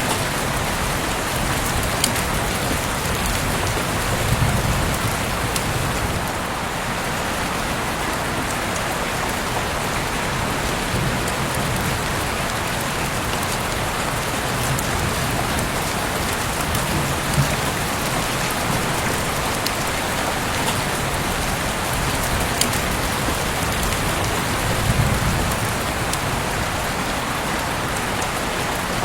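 Heavy rain falling steadily, a dense even hiss, with a few sharp drip clicks scattered through it and twice a brief low rumble.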